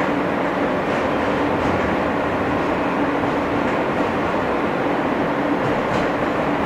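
Inside an R160 New York subway car: an even, steady rumble of the train with a constant hum running through it and a few faint ticks.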